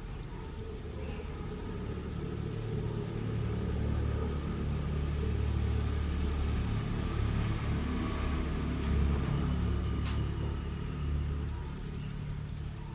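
A low rumble that builds over a few seconds, holds, and eases near the end, with a faint click about ten seconds in.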